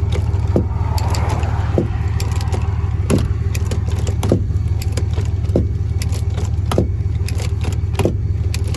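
Tie-down chain clinking and clicking about once a second as it is tightened on the trailer load, over a diesel truck idling steadily.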